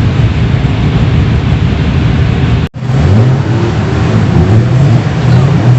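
Car engine running loudly with a deep rumble, its pitch rising and falling as it is revved; the sound drops out for an instant just under three seconds in.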